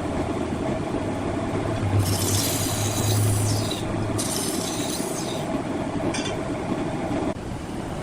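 Woodworking machinery running with a steady hum, as a cutting tool scrapes across wood in two hissing stretches about two and five seconds in.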